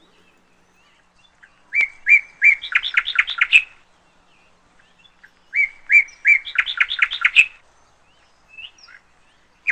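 A bird singing two similar phrases, each a few spaced notes that quicken into a fast run of notes, about four seconds apart, with a short call at the very end.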